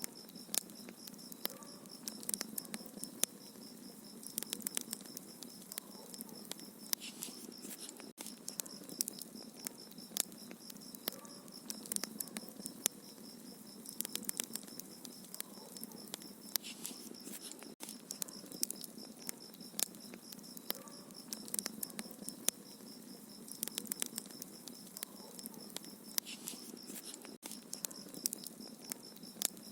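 Wood fire crackling in a fireplace, with frequent irregular sharp pops and snaps. A steady high-pitched trill runs underneath.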